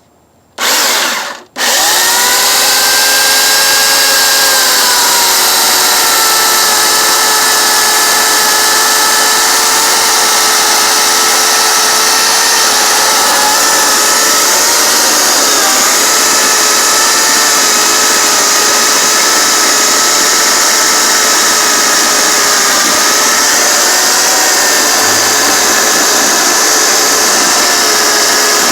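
Homelite 16-inch electric chainsaw: a brief burst of the motor, then it runs continuously while cutting through tree wood. Its whine drops in pitch as the chain bites and dips a few more times under load.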